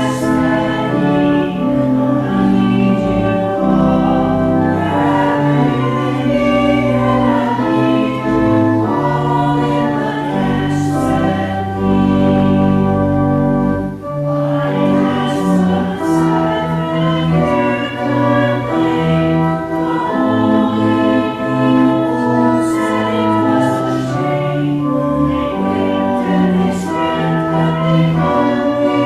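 Choir singing with organ accompaniment, a sustained chordal church piece with a brief break between phrases about halfway through.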